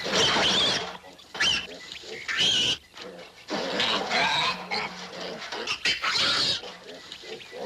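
Piglets squealing in a string of short, high-pitched bursts, about five over several seconds.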